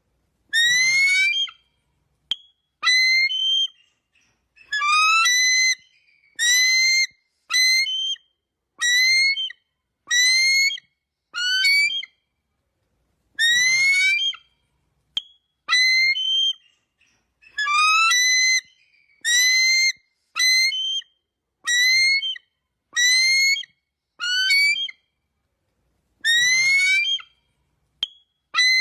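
Eagle calling: a series of about eighteen short, rising whistled cries, one every second or two, with silence between them.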